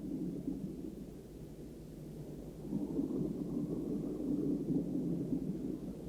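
Low rumbling water noise with no clear tones, growing louder about three seconds in.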